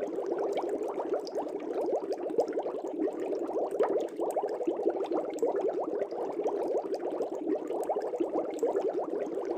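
Air bubbles streaming up through aquarium water: a steady, dense bubbling that never pauses.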